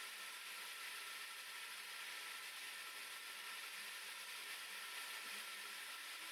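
Faint steady hiss of background recording noise with no distinct sounds.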